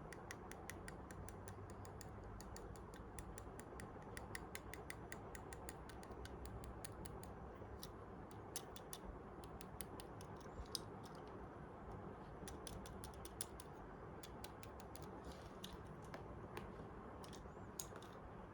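Light, irregular clicking and ticking from a small diecast toy car being handled, over a faint steady hiss; the clicks come in quick runs near the start and again about two-thirds of the way through.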